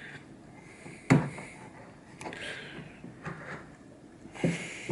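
Wooden drawer parts knocking and sliding together as the back panel is fitted into its sliding dovetail joints: a sharp knock about a second in, a lighter one a second later, and a few more knocks near the end.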